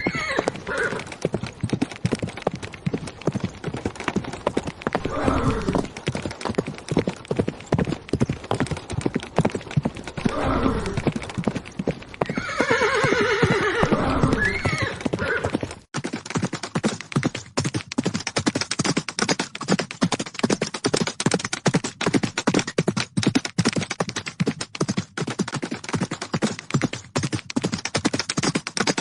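Horses galloping, a rapid clatter of hoofbeats, with a horse neighing at the start and again about halfway through. Just after the middle the sound cuts out for an instant and a sharper, denser clatter of hoofbeats follows.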